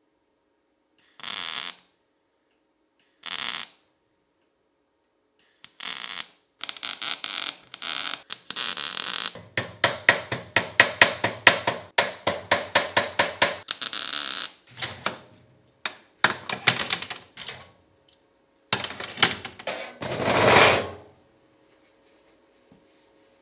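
Metalworking on car body panels: short hissing bursts, then a fast run of sharp strikes, about five a second, then more bursts.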